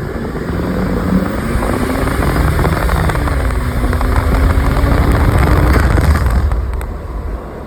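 Jeep Grand Cherokee's 2.7 CRD (OM612) diesel on the move, a loud steady engine and road rumble whose pitch dips and rises again about midway.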